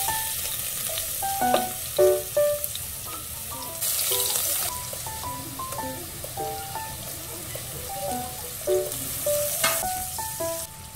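Chopped garlic sizzling as it fries in hot cooking oil and melting butter in a pan, the sizzle swelling louder in a few spells. A light piano tune plays over it.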